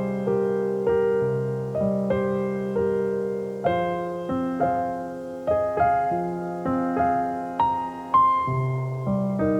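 Solo piano playing a slow, gentle piece: notes and chords struck roughly once a second, each left to ring and fade.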